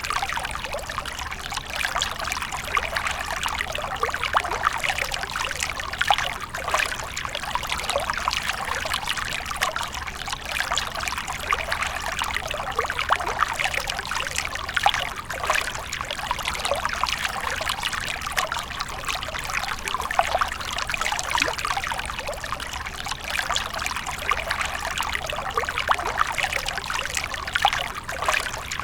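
Water from a fountain splashing and trickling steadily into a basin.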